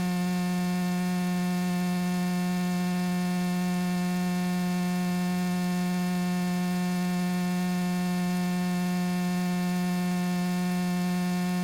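Steady electrical hum with many evenly spaced overtones, unchanging in pitch and level, in the Cessna 172S's intercom and radio audio feed between transmissions.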